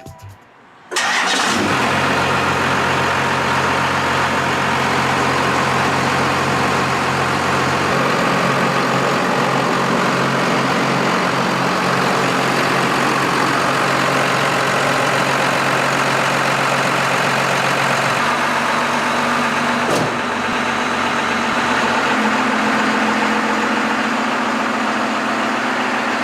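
Cummins 5.9-litre turbo-diesel straight-six of a 1992 Dodge W250 pickup coming in suddenly about a second in and running at a steady idle, its note shifting slightly about a third of the way through and again about two-thirds through. A single short click near the end.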